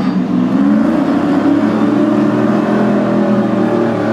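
Engines of a Ford pickup and a Corvette running at the drag-race start, a steady drone whose pitch drifts slowly up and down.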